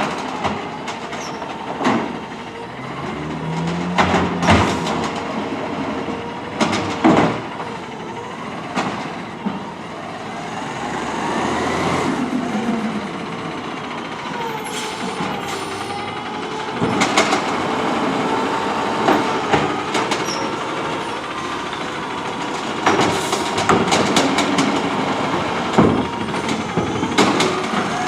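CNG Autocar ACX garbage truck with an automated side-loader arm at work: its engine and hydraulics whine up and down in pitch, with repeated metal clanks and bangs throughout.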